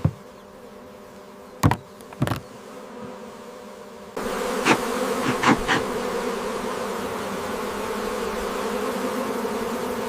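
Honeybees buzzing: a steady hum of many bees that jumps suddenly louder about four seconds in, with a few short clicks or knocks along the way.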